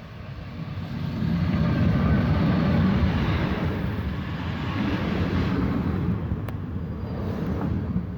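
A train passing on the track, with a heavy low rumble that builds over the first two seconds and then runs on steadily.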